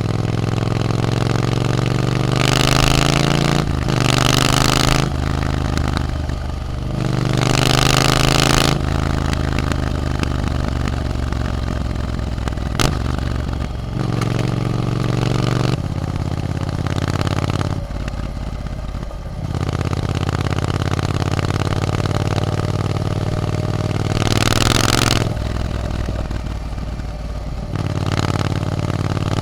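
Triumph Scrambler 900's parallel-twin engine through an Arrow exhaust, ridden on the road, its pitch stepping up and down repeatedly with throttle and gear changes. Several louder stretches of rushing noise come and go, and there is one sharp click about thirteen seconds in.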